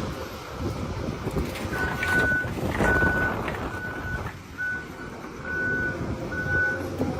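Vehicle reversing alarm beeping, one steady tone a little under once a second, starting a couple of seconds in, over heavy machine noise and a few knocks.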